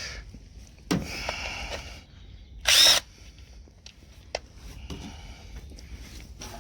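A 12-volt cordless 3/8-inch drive impact wrench runs in one short loud burst about three seconds in, working a tight rocker cover fixing on a tractor engine. Metallic clinks and clatter of tools and a socket come before and after it.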